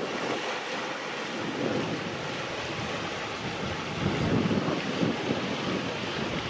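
Wind buffeting the microphone, a steady rush with gusty low rumbles that pick up about four seconds in.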